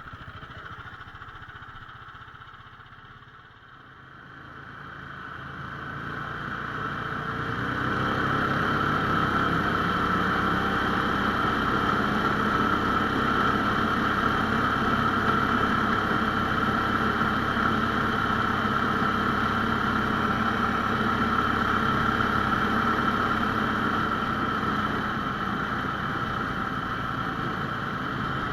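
17 hp Lifan single-cylinder four-stroke petrol engine of a Laika 2M motorized tracked sled running. It grows louder over the first several seconds and then holds steady at a constant speed.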